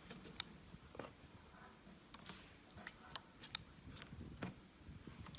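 Faint, irregular light clicks and taps, about a dozen spread unevenly, of small hand tools working on a laptop motherboard during soldering.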